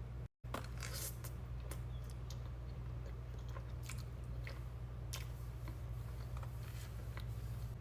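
Close-miked mukbang eating: chewing and biting into crisp food, with scattered sharp crackles, over a steady low hum. The sound cuts out for a split second near the start.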